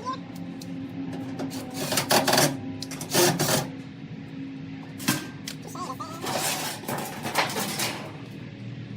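Irregular clatter and knocks, several separate strikes, the loudest about two and three seconds in, over a steady low hum.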